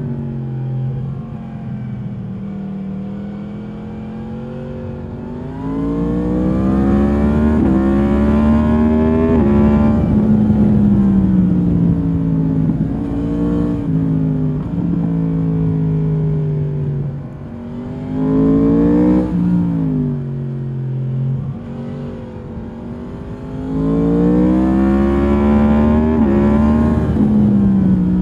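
Stock exhaust of a 2022 Yamaha MT-10's crossplane inline-four, heard from the rider's seat while riding. The revs rise and fall as the bike pulls hard several times, with quieter, lower-revving stretches between the pulls.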